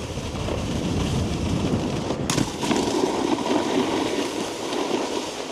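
Snowboard sliding and scraping over hard-packed snow, a steady rough rumble with a sharp knock about two seconds in.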